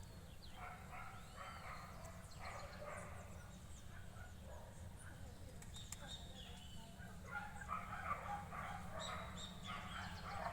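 Many short animal calls overlapping, some rising and falling in pitch, over a steady low rumble.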